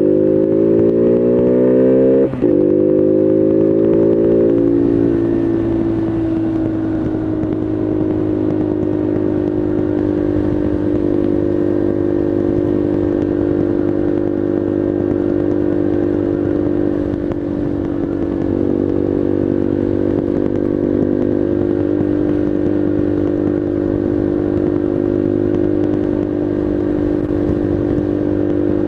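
Bullit Heritage 125cc monkey bike's single-cylinder four-stroke engine pulling under way. The revs climb, drop abruptly at a gear change about two seconds in, and climb again. Then the engine settles to a steady cruise.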